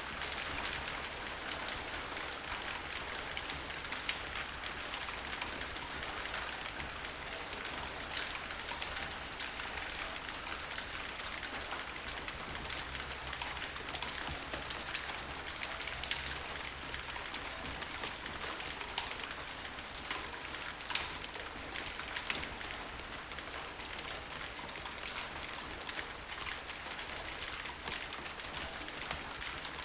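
Steady rain falling, an even hiss with many sharp drop hits standing out throughout.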